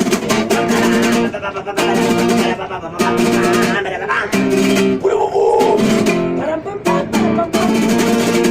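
Acoustic guitar strumming chords, each chord held about a second before the next.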